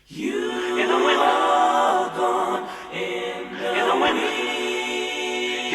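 Background music: an a cappella intro of layered voices singing held chords in close harmony, changing every second or two.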